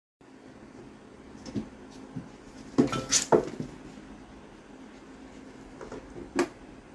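A few sharp knocks and clatters, several in quick succession about three seconds in and a single one near the end, over a steady low hum.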